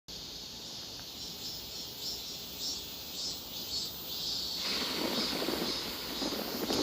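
Cicadas singing: high pulsed calls repeating about twice a second, then a steadier high buzzing chorus takes over about two-thirds of the way in, joined by a low rumble.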